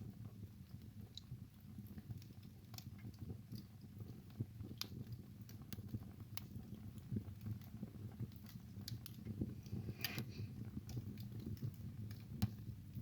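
Wood fire burning in a fireplace with a steady low rumble, crackling and popping in irregular sharp snaps; a larger pop comes about ten seconds in.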